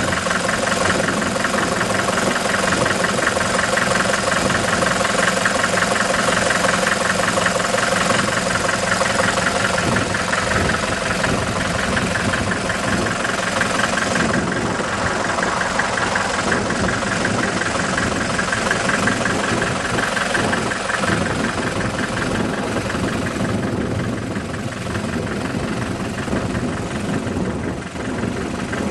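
1954 Farmall Super MTA's four-cylinder diesel engine idling steadily with an even pulsing beat, a little fainter near the end.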